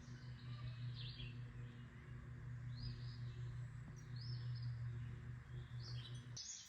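Faint bird chirps, short high calls every second or so, over a steady low hum that cuts off near the end.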